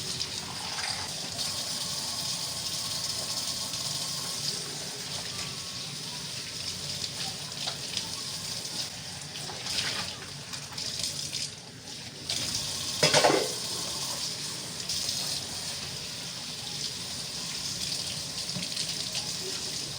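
Water running steadily from a tap into a sink, with a few short knocks, the loudest about two-thirds of the way through.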